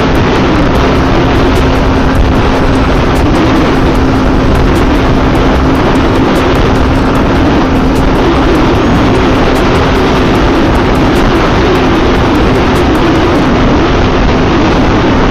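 Loud, steady wind rush and road noise from a motorcycle ridden at highway speed, with the Yamaha FZ V3's single-cylinder engine running underneath, its pitch wavering a little.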